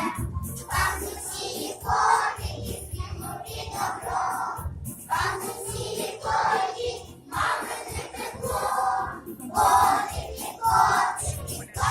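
A group of young children singing a song together in unison, over an instrumental accompaniment.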